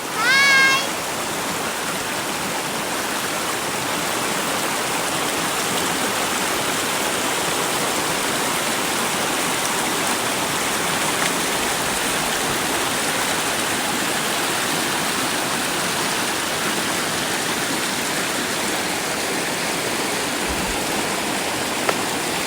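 Steady rush of running water, even throughout, with a short rising pitched call about half a second in.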